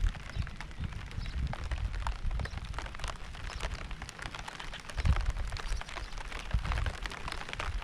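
Steady rain falling, with many separate drops ticking close by. Low rumbles swell and fade underneath, strongest about five seconds in.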